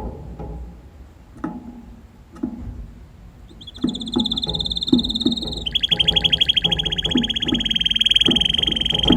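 Red canary singing: about three and a half seconds in, a fast, high trill of rapidly repeated notes begins. About two seconds later it switches to a lower, fuller rolling trill held for over three seconds.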